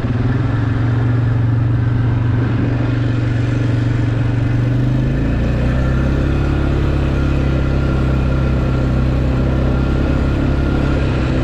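A truck engine running steadily while driving on a rough gravel trail, its note dropping to a lower pitch about halfway through.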